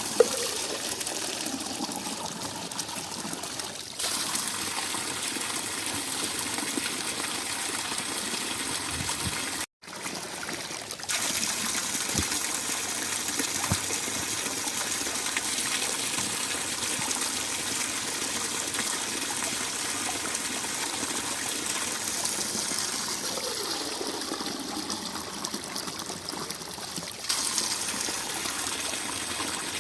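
Mountain spring water running steadily, with a brief dropout about ten seconds in.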